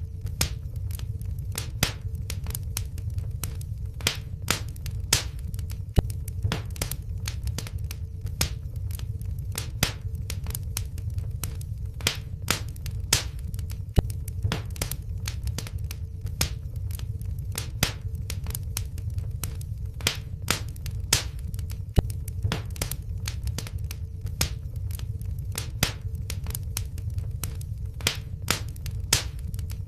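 Wood fire in a fireplace crackling, with frequent sharp pops and snaps over a low rumble of flame, dubbed in as a fire sound effect. The loudest pop comes back about every eight seconds, and a faint steady hum runs underneath.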